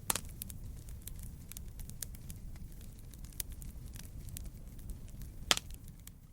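Wood fire crackling and popping over a low steady rumble of flames, with a loud sharp pop about five and a half seconds in. The sound fades away at the very end.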